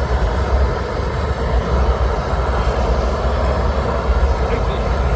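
Propane roofing torch burning steadily, heating a torch-down bitumen patch so it will stick.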